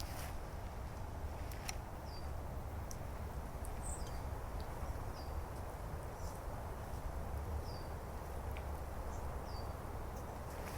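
Outdoor woodland ambience: a small bird gives short, high call notes that drop in pitch, every second or two, over a steady low rumble with a few faint clicks.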